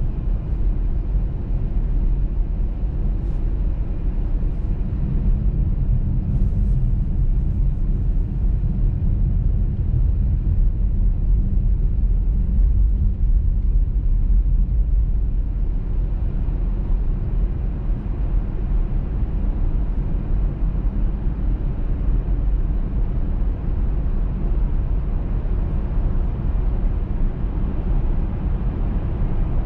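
Car driving on a snowy road: a steady low rumble of tyre and road noise with engine drone, and a few faint clicks a few seconds in.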